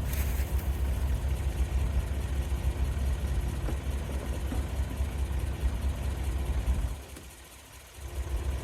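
Doosan DX35z mini excavator's diesel engine running steadily with a deep rumble, dropping away for about a second near the end before coming back.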